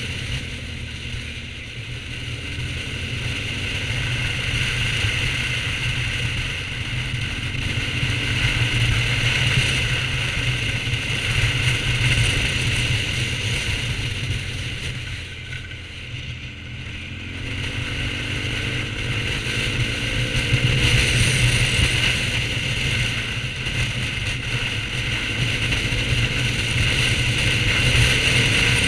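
BMW R1200GS boxer-twin engine running while riding, its note rising and falling as the rider eases off and accelerates through the bends, with rushing wind noise over the camera.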